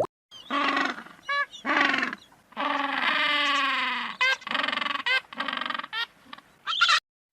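A string of short animal calls, one after another, with pitched cries separated by brief gaps and each cutting off abruptly; the longest is a drawn-out call about halfway through that falls slightly in pitch.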